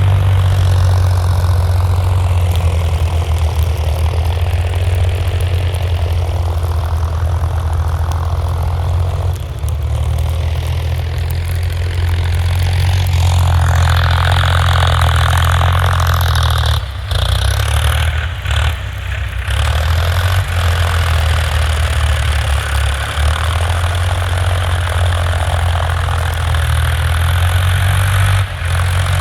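Diesel tractor engine running with a steady low drone; about thirteen seconds in, a harsher mid-range noise grows louder on top of it.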